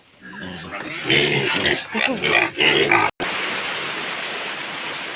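A piglet squealing and grunting in loud, broken calls for about three seconds, then an abrupt cut to the steady hiss of light rain.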